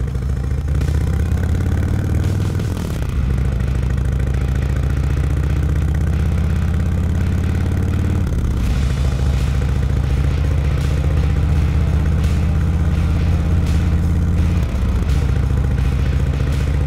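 Motorcycle engine running under way, its note rising slowly and then dropping abruptly three times.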